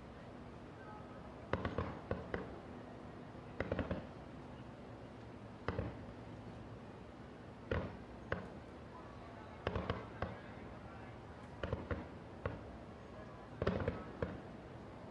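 Aerial fireworks bursting: clusters of two or three sharp bangs about every two seconds, each with a short echoing tail.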